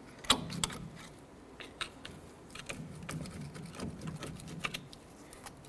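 Irregular metallic clicks and scrapes of a pry tool working a rear disc brake caliper off its rotor, the sharpest click about a third of a second in.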